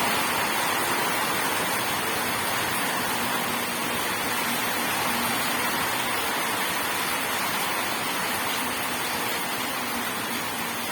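Steady heavy rainfall, a dense even hiss, growing slightly quieter toward the end.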